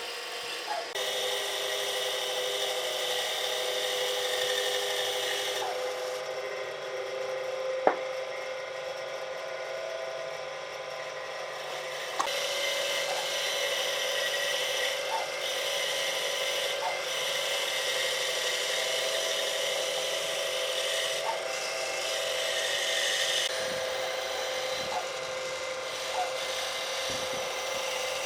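A power tool running steadily as it works wood, its cutting noise coming and going every few seconds, with two sharp knocks in the first half.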